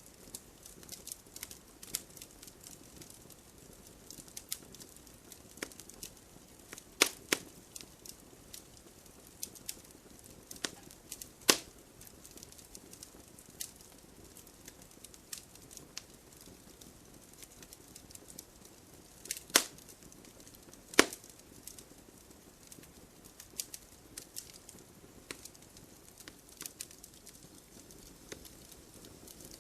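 Wood fire burning in a fireplace: a low steady hiss with irregular crackles throughout and a handful of louder, sharp pops spread through.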